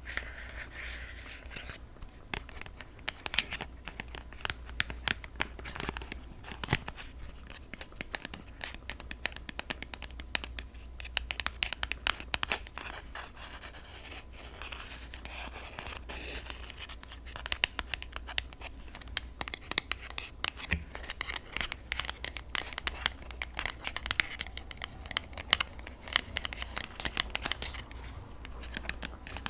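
Rapid, irregular tapping and scratching on the cardboard packaging of a set of press-on nails.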